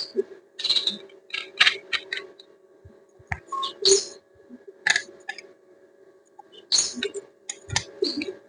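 Metallic clicks and clinks of an angle grinder being handled while its disc is changed, a grinding disc going on in place of a cutting disc. They come in irregular clusters, over a faint steady hum.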